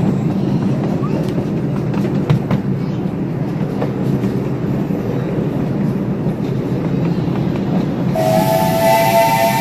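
Train cars rolling behind a live steam locomotive, a steady rumble with scattered clicks from the rails. About eight seconds in, the locomotive's steam whistle starts blowing a held chord of several notes.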